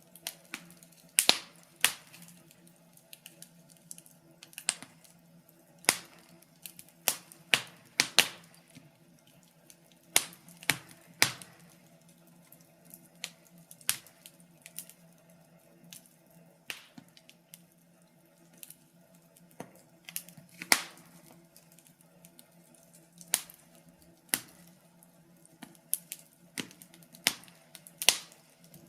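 Wood fire crackling in a fireplace: irregular sharp pops and snaps, some loud and some faint, spaced unevenly, over a faint steady low hum.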